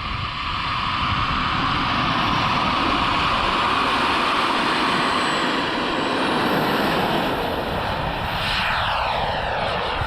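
Model jet turbine in an RC Avanti running at full power for takeoff, a steady loud rush with a high whine that climbs about six seconds in. Its pitch then falls as the jet passes by, about eight and a half seconds in.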